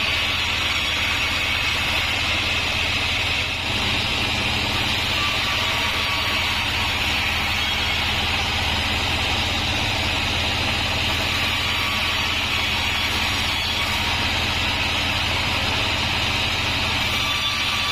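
A 36-inch band sawmill runs steadily, with a low motor hum under a constant high hiss.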